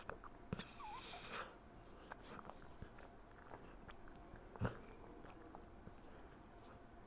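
A sleeping dog dreaming: soft snuffling breaths and small mouth clicks and smacks. There is a short squeaky whimper about a second in and a sharper click a little past halfway.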